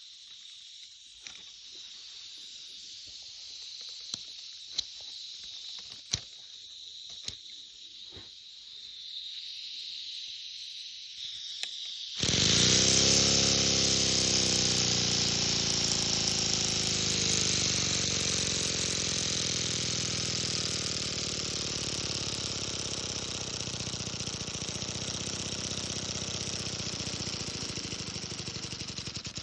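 Single-cylinder Lego Technic pneumatic engine running on compressed air. At first there is only a faint air hiss and a few clicks. About twelve seconds in it suddenly runs at high speed, a loud rapid buzz with a strong air hiss, its pitch dipping and then settling, until it stops abruptly at the end.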